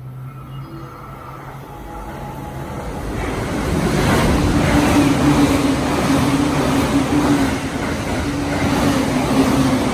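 Electric train running along the track past the platform, its wheel and rail noise growing steadily louder over the first four seconds and then staying loud, with a steady motor hum underneath.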